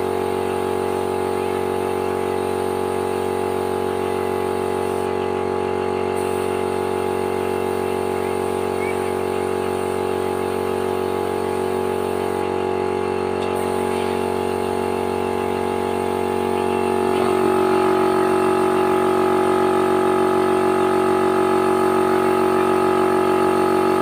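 A machine motor running steadily, a hum of several held tones. About 17 seconds in it grows louder and its pitch shifts, as if the load changes.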